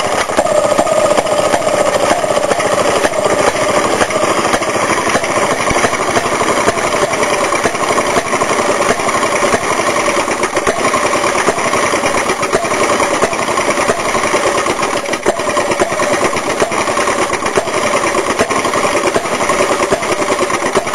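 Antique Maytag washing-machine two-stroke engine running steadily, firing in a rapid, even popping beat with a slightly wavering pitch.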